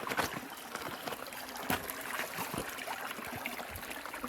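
Steady rush of a mountain stream, with scattered short snaps and rustles over it.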